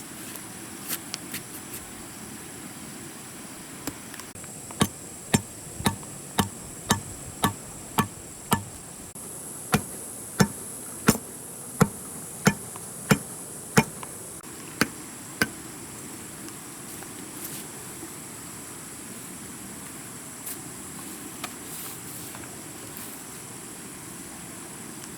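A hand tool striking hard in a run of about seventeen sharp knocks, roughly one and a half a second, with a short break in the middle, the way a bushcrafter chops or pounds at camp. Under it runs a steady high buzz of insects.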